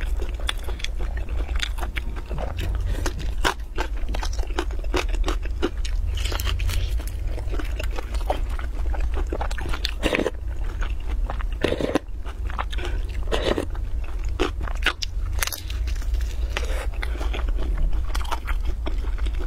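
Close-miked biting, crunching and chewing of a crisp pan-fried stuffed pancake, with many sharp crackles of the fried crust. There are a couple of noisier sips from a spoon near the middle, over a steady low hum.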